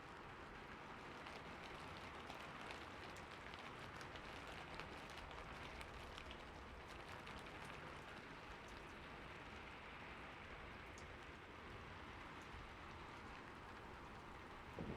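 Faint, steady rain with scattered drops ticking on a surface. A low rumble of thunder begins right at the end.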